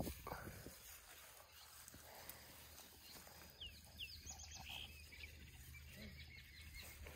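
Faint bird chirps, short notes that dip in pitch, a few around the middle and again near the end. A brief soft rustle of cut grass just after the start.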